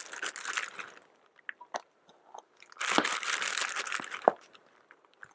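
Plastic zip-top bag crinkling and rustling as diced onions are shaken out of it, in two stretches, at the start and again past the middle, with a few small clicks between.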